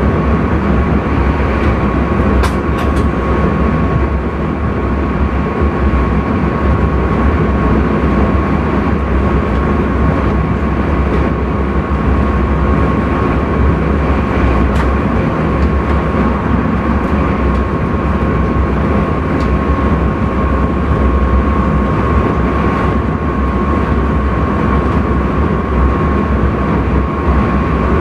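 Intercity train running at speed, heard from inside the driver's cab: a steady rumble of wheels on rail with a thin steady tone above it and a few short clicks.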